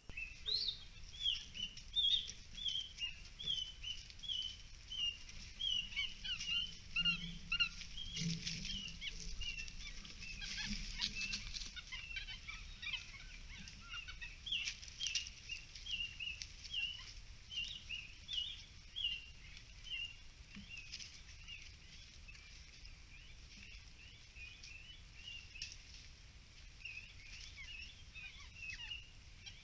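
A bird chirping over and over, short high calls about two a second that grow fainter and sparser toward the end. A few sharp clicks and a low hum come a quarter to a third of the way in.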